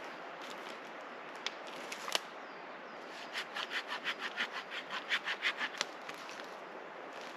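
A hand tool working wood: a few scattered clicks, then about three seconds of fast, even rasping strokes, roughly six a second.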